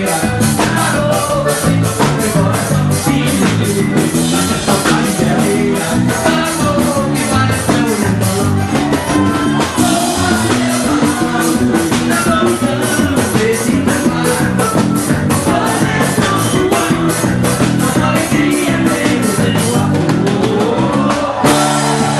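Live forró band music: a band playing over a steady, even percussion beat, with singing.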